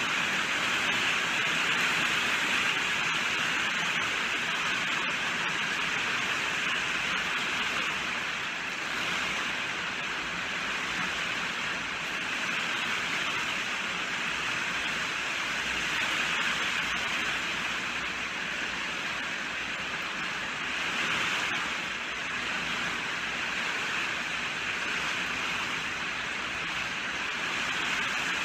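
Steady rainfall: a dense, even hiss of rain falling, swelling and easing slightly every few seconds.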